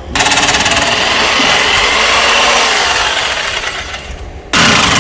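Power tool running in two bursts: a long run of about four and a half seconds, a brief stop, then it starts again near the end.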